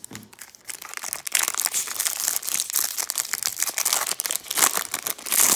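Foil wrapper of a trading-card pack crinkling as it is torn open, a dense crackle that grows louder about a second in.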